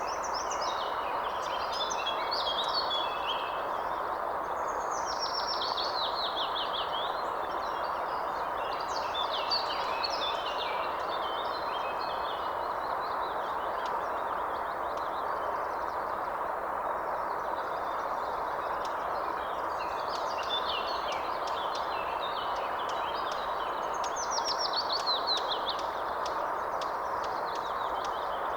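Birds singing in short, repeated phrases, some of them quick series of falling notes, over a steady, even background noise.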